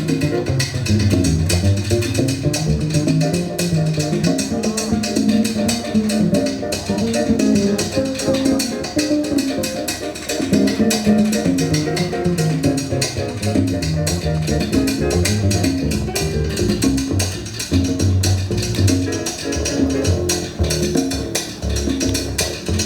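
Latin jazz ensemble playing live, with a busy bass line moving under steady, quick percussion.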